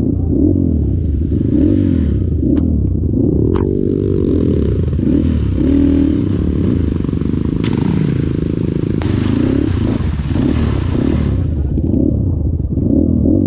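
Dirt bike engine revving up and down over and over as it is worked along a slippery muddy trail, with a few sharp knocks and a steady hiss through most of it.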